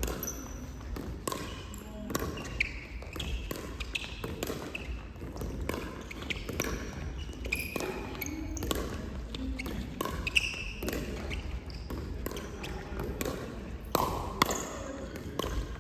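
Ball play on an indoor court: sharp ball hits and bounces at irregular intervals, with short high squeaks in between and faint voices.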